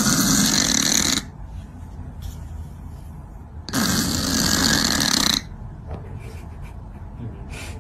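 Loud snoring: two long snores, one right at the start lasting about a second and a longer one about four seconds in, with quieter breathing between.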